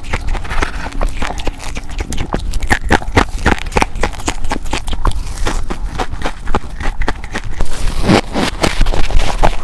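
A person biting and crunching hard ice close to the microphone: a rapid, continuous run of crisp cracks and crunches, several a second.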